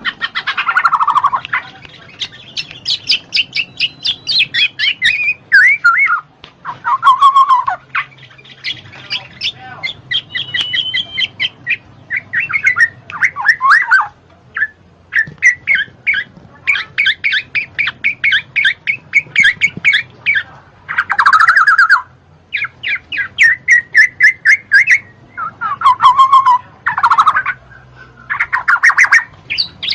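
Black-naped oriole (kepodang) calling and singing: bursts of fast, repeated chattering notes alternate with harsh, downward-sliding squawking calls, in phrases of one to two seconds with short pauses between them.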